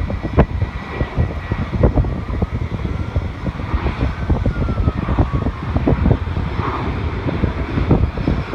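Strong wind buffeting the phone microphone in rapid gusts, with a jet airliner's engine whine faintly rising and then falling behind it.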